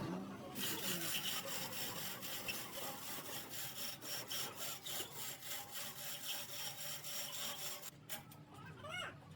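A hand tool such as a hacksaw or file worked back and forth on metal in rapid, even strokes. The strokes stop about eight seconds in.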